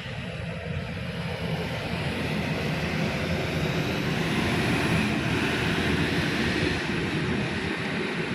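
A train passing through the station: a steady rumble and hiss that swells to a peak about five seconds in, then eases slightly.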